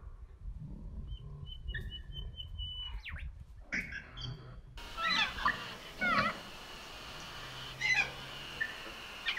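First, a few short scattered calls and a wavering high whistle. About five seconds in, the sound cuts to outdoor ambience with a steady hiss, over which birds call again and again in quick chirps that rise and fall in pitch.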